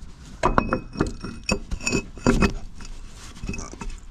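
Metal parts clinking and knocking together: a quick run of sharp clanks with a short metallic ring, loudest about half a second in and again around two and a half seconds, then a few lighter knocks.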